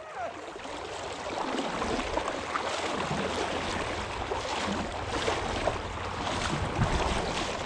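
Fast creek current rushing around a fishing kayak, a steady wash of moving water that swells over the first couple of seconds and then holds steady.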